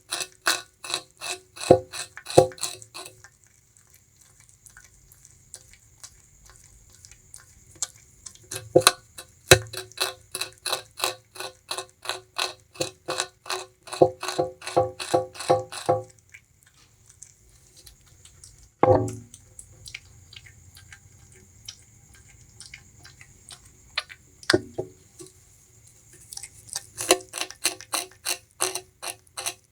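Bamboo rat gnawing and chewing sugarcane: runs of rapid crunching bites, about five a second, broken by pauses, with a few louder single cracks.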